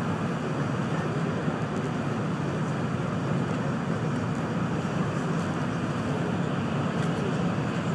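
Steady running noise heard inside the cabin of a Sanyo Shinkansen bullet train: an even low rumble with a rush of noise above it.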